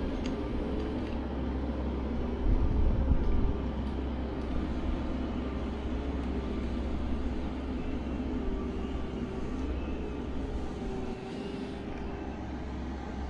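An engine running steadily with a deep low rumble, easing slightly near the end.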